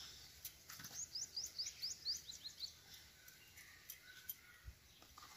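A small bird singing a quick run of about eight short, high chirps lasting about a second and a half, with a couple of fainter notes after.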